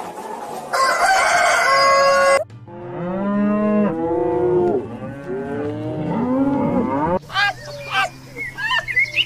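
A chicken's crow, a long steady high call, then a cow mooing in several low calls that rise and fall in pitch. Near the end, a red fox gives short high yelps in quick succession.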